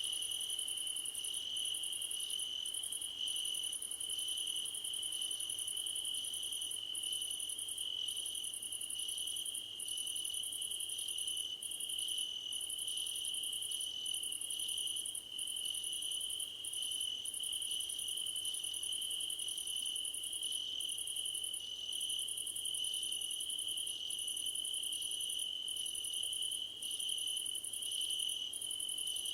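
Chorus of crickets singing in a grass field: a steady high trill, overlaid with a still higher, pulsing layer that breaks off briefly about once a second.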